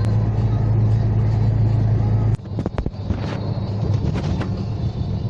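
Truck engine droning steadily inside the cab. About two seconds in, the drone drops off abruptly and a few sharp clicks follow, then a quieter running sound continues.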